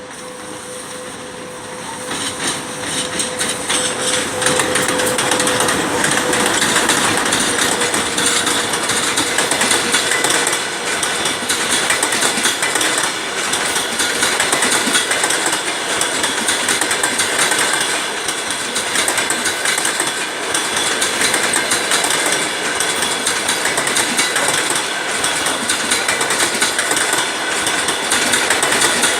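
Electric locomotive (VL80t) and its passenger coaches rolling past, a loud rumble that swells over the first couple of seconds and then holds, with dense rhythmic clicking of wheels over rail joints. A steady hum fades out about ten seconds in.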